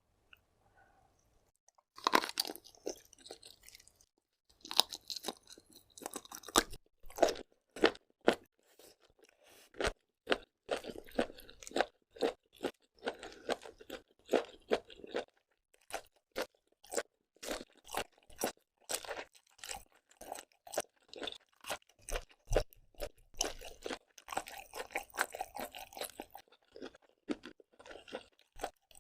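Close-miked mouth sounds of someone eating seafood: loud crunching and wet chewing, many sharp crackles a second, starting about two seconds in after a near-quiet pause.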